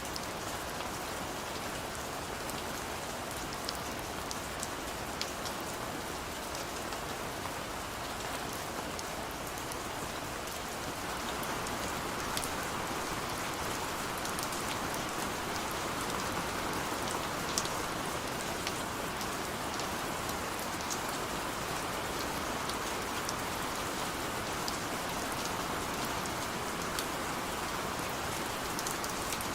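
Steady rain falling and running down a window, an even hiss with scattered sharp drop ticks, growing a little louder about a third of the way in.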